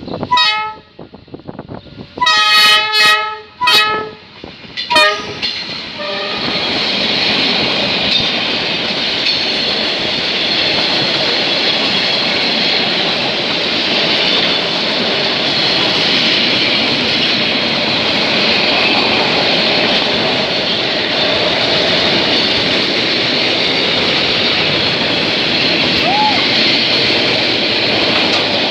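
Freight train's locomotive horn sounding three short blasts, then the train passing close by with a steady rushing clatter of wheels on the rails.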